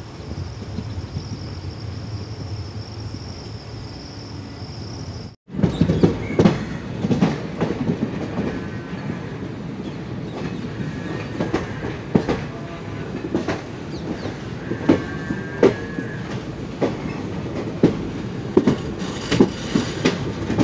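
Passenger train running, first as a steady rush with a thin high whine. After a cut about five seconds in, its wheels clatter irregularly over rail joints and points, with a couple of brief faint wheel squeals.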